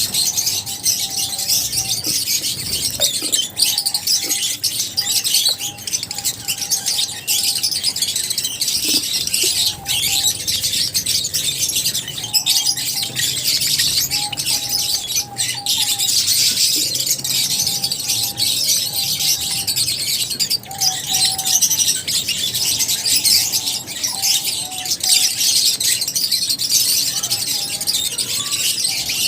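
A flock of lovebirds chattering and chirping continuously, many high, rapid calls overlapping. A lower whistled note recurs every second or two underneath.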